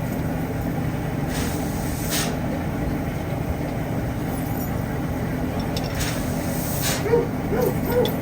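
Steady rumble of a steam train, with two brief hisses. A few short chirps come near the end.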